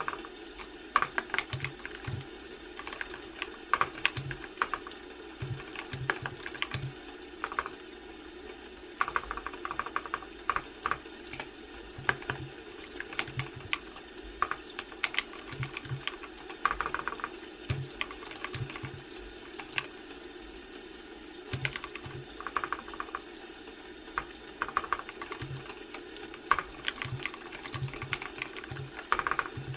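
Typing on a computer keyboard: irregular runs of key clicks with short pauses between them, over a steady faint background hum.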